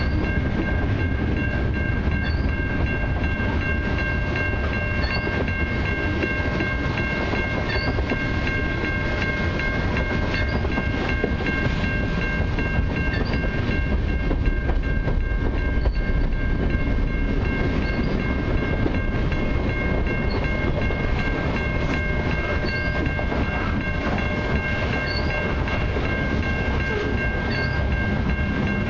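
Freight cars of a long mixed freight train (boxcars, tank cars and covered hoppers) rolling past at a level crossing. The wheels on the rails make a steady, even rumble, with steady high ringing tones held over it throughout.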